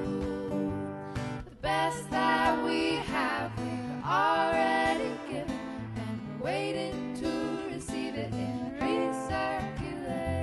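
Folk band playing a song live: acoustic guitar with a sung vocal line over sustained low notes.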